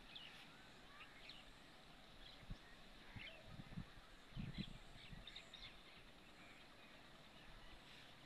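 Faint, scattered bird chirps, short and high, over a very quiet field. A few low bumps on the microphone around the middle are the loudest moments.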